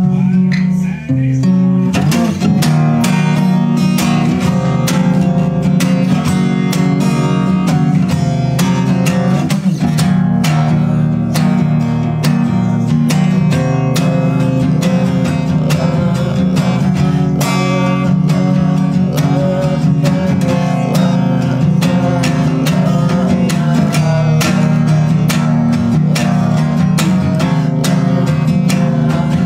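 Acoustic guitar strummed steadily in an instrumental passage between sung verses, its chords ringing throughout.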